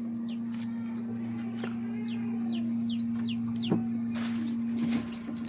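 Chicks peeping: a quick run of short, high chirps, each sliding down in pitch, several a second, over a steady low hum. Rustling starts near the end.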